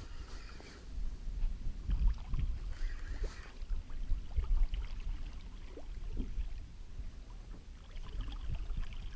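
Water lapping against a small fishing boat's hull, with low wind rumble on the microphone and scattered light knocks and clicks.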